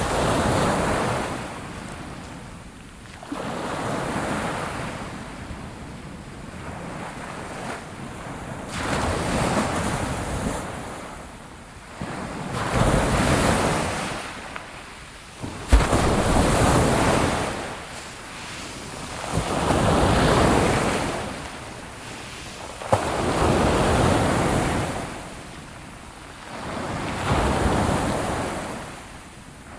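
Sea waves washing onto a shore, each surge swelling and falling back every three to four seconds, with wind blowing across the microphone. Two brief sharp cracks stand out over the surf about halfway through and again a little later.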